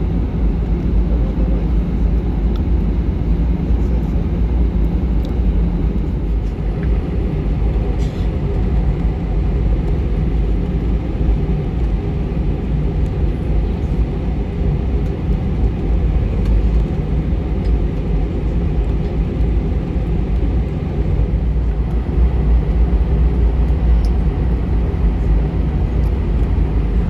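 Steady low rumble in the cabin of an Airbus A319 on the ground, with the jet engines running as it taxis.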